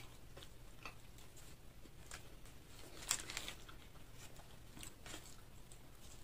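Close-up eating sounds: chewing and crunching fried chicken, with scattered small crackles and a louder crunchy cluster about three seconds in.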